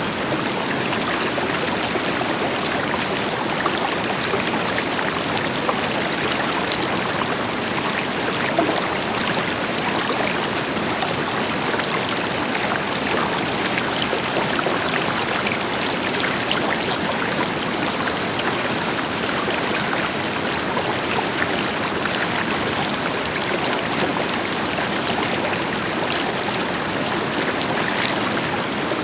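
River water flowing and splashing over rocks, a steady rushing noise with small splashes throughout, with a distant waterfall's deeper rush beneath.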